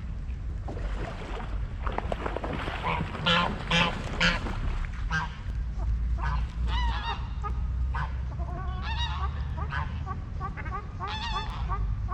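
Geese honking: a few loud harsh calls about three to four seconds in, then a long run of short calls over a steady low rumble.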